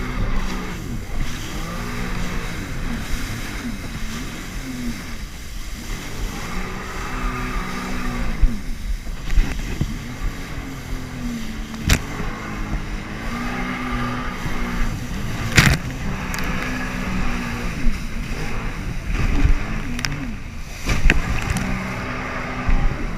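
Jet ski engine running, its pitch rising and falling again and again as the throttle is opened and eased, over a steady rushing noise, with a few sharp knocks.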